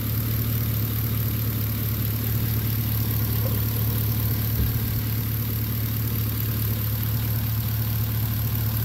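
Chevrolet Caprice PPV's 6.0-litre L77 V8 idling steadily with a constant low hum. It is running on heavy 10W-60 oil, which the owner uses as a stopgap to quiet the chirp of a failing lifter.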